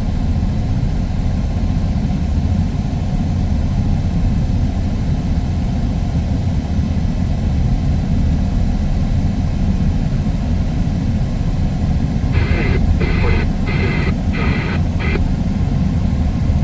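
Steady low engine rumble with no breaks, idling. About twelve seconds in, five short buzzy beeps come about 0.7 s apart.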